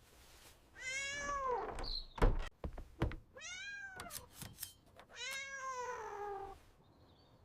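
Domestic cat meowing three times, each call rising then falling in pitch, the last one longest. A few light knocks come between the calls.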